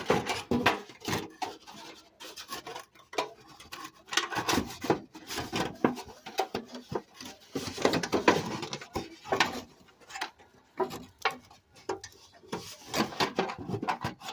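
Hand tool scraping and rasping against wood in quick, irregular strokes, with some sharper knocks, as the wood is scored and chipped out.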